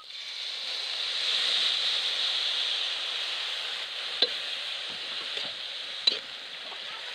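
Sliced bamboo shoots sizzling in a hot metal wok as soy sauce is poured in, the sizzle swelling about a second in. They are stirred with a spatula, which clicks sharply against the pan twice.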